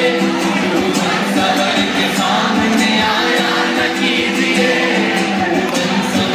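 Loud live music with singing.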